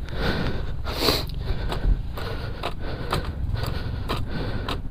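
A dirt-bike rider's heavy breathing, with two harder breaths near the start and about a second in, over a low rumble and scattered irregular knocks and crunches as the bike is handled in the snow.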